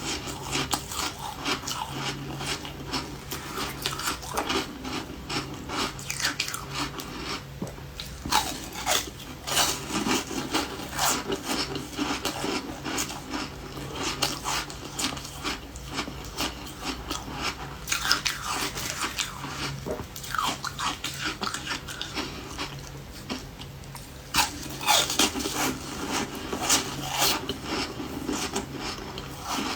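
A person biting and chewing refrozen ice: a continuous run of irregular crunches and crackles, with several louder bites.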